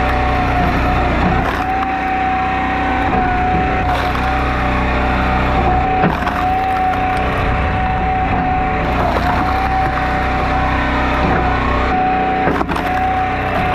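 Engine-driven log splitter running steadily, with a constant whine over the engine hum. A few sharp knocks and cracks of wood being split come through it.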